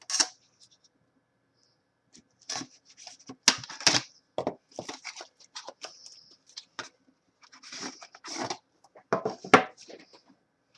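Trading-card box packaging being opened and handled: scattered sharp clicks, knocks and short tearing rustles, with a brief pause about a second in.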